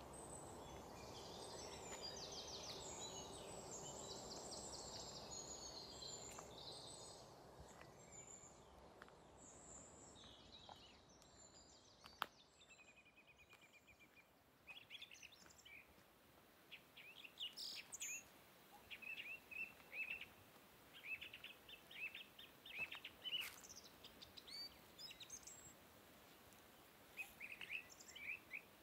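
Small birds chirping and trilling in the scrub, many short high calls throughout. A faint low rush fades away over the first ten seconds or so, and there is a single sharp click about twelve seconds in.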